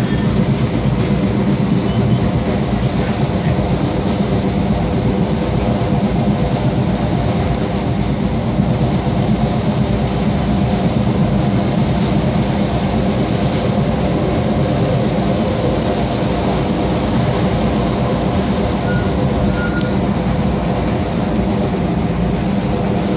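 Long Island Rail Road train heard from inside a passenger car, running steadily through a tunnel. It makes a constant rumble of wheels on track, with a steady drone under it.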